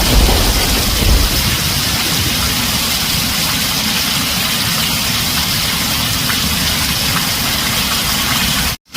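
Heavy rain pouring steadily on a tin roof, with the last of a low thunder rumble dying away in the first second. The sound cuts out for an instant near the end and comes straight back.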